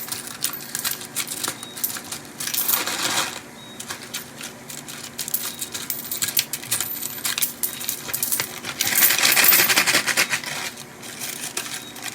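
Coins clinking and rattling in a tightly packed bottle as it is worked to shake them loose, with two louder bursts of jingling, about two and a half seconds in and again about nine seconds in.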